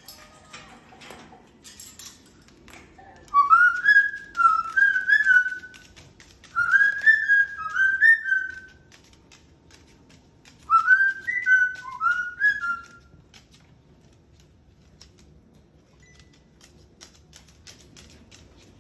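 Moluccan cockatoo whistling, in three short runs of gliding, up-and-down notes with quieter gaps between, with faint scattered ticks throughout.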